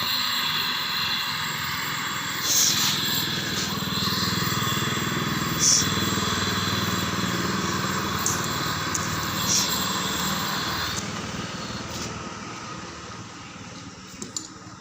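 Aluminium welding on the cracked casing of a water-pump engine: a steady hissing buzz with a few sharp crackles, stopping about eleven seconds in.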